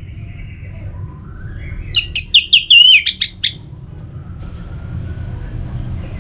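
Orange-headed thrush song: a loud run of about eight quick, high notes, some wavering in pitch, about two seconds in and lasting about a second and a half. Fainter chirps and a low background rumble run underneath.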